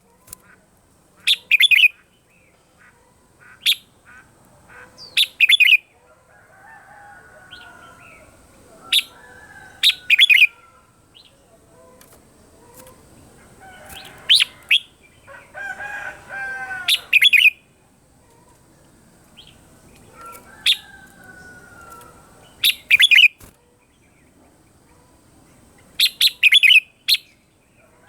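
Red-whiskered bulbuls singing: short, loud, bright phrases repeated every few seconds, with fainter, lower gliding notes in between and a longer warbled phrase about halfway through.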